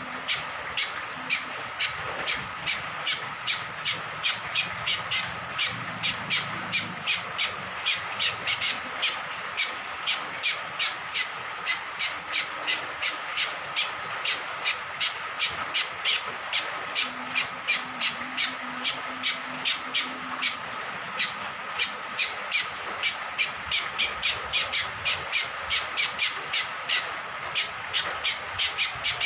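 Cucak kombok (kecial kombok), a small honeyeater, calling in a long rapid series of sharp, high chirps, about three a second, over a steady background hiss.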